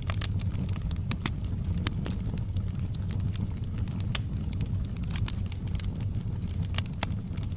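Wood fire of large logs burning: a steady low rumble of the flames with frequent sharp crackles and pops at irregular intervals.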